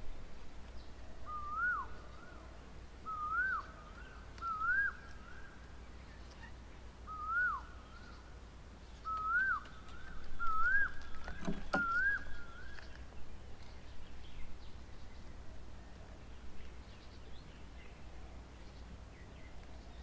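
A bird's short whistled note, rising and then dropping away, repeated seven times at intervals of one to three seconds. A single knock sounds near the end of the series.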